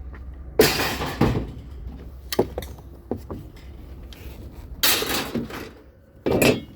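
Hard objects being handled: a series of knocks and clattering bangs, the loudest about half a second in and near five seconds, with a low steady hum underneath.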